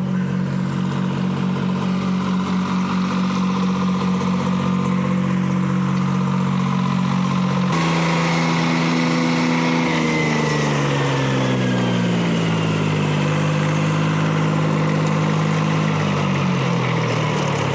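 Detroit Diesel 3-71 two-stroke three-cylinder diesel power unit running steadily, then, about eight seconds in, slowing down gradually with its pitch falling over several seconds, a fainter high whine falling along with it.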